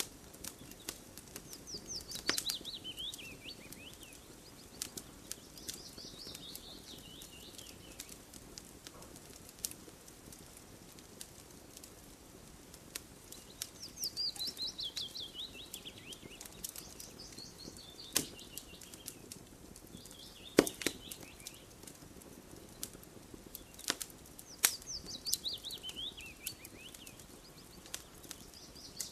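Campfire crackling with scattered sharp pops, the loudest ones about two-thirds of the way through, over a low steady hiss. A bird sings a short descending trill every few seconds.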